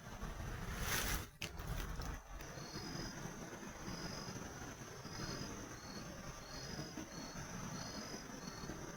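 Insects chirping: a steady high drone, joined from about two and a half seconds in by short repeated chirps at two alternating pitches. A brief rush of noise about a second in.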